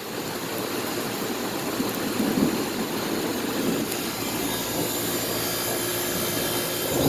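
2011 2.5-ton Goodman central air conditioner's outdoor unit running steadily, condenser fan and compressor going, under heavy rain.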